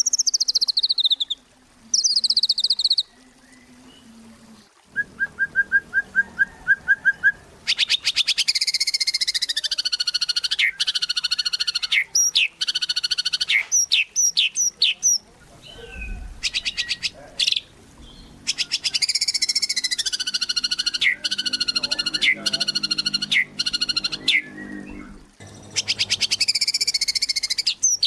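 White-rumped shama (murai batu) in full song. It starts with falling whistles, then about five seconds in gives a quick run of short notes, followed by long rapid buzzy trills broken by brief gaps.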